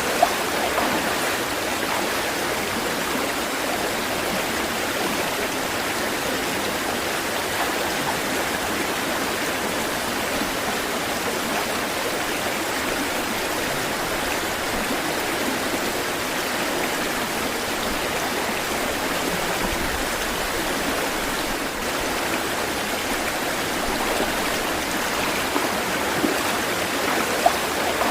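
Water flowing steadily, like a stream, with a constant rushing and a few brief splashes near the start and near the end.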